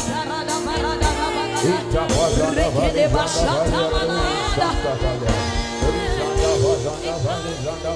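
Live gospel worship music: voices singing a wavering melody over a band, with a steady low beat and regular cymbal or drum hits.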